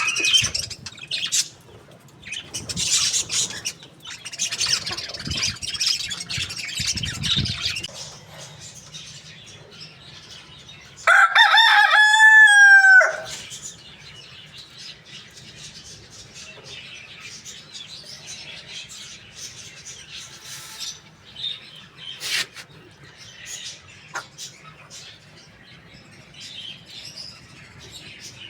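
A rooster crows once, about eleven seconds in: a loud call of about two seconds that drops in pitch at the end. It is preceded by several seconds of harsh, noisy bursts and followed by faint chirps.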